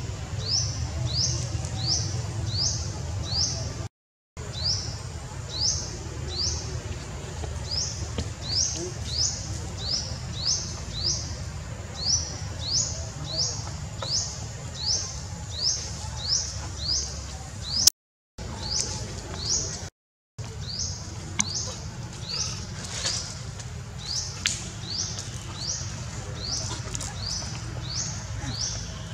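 A bird calling over and over with short, high, quickly rising chirps, about two a second, over a low steady rumble. The sound cuts out completely for a moment three times.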